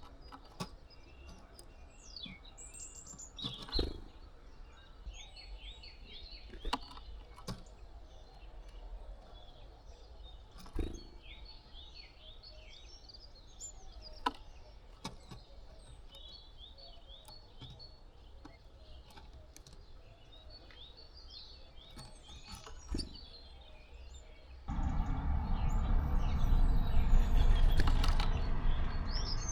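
Small songbirds chirping and calling repeatedly, with scattered sharp clicks and knocks. About 25 s in a loud low rushing noise starts suddenly and lasts about five seconds, louder than the birds.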